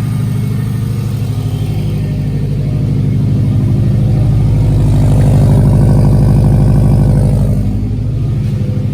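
Subaru WRX's freshly swapped JDM flat-four engine running just after its first start; its revs climb over the middle few seconds, then fall back to idle about three-quarters of the way through.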